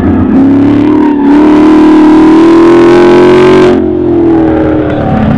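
Ford Mustang Boss 302 race car's V8 under hard acceleration, its note rising steadily for about three seconds, then cutting off sharply as the throttle is lifted, leaving a quieter, lower engine sound.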